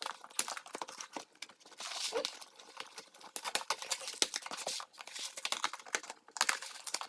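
Shipping package being torn open by hand: irregular tearing, rustling and crinkling of the packaging.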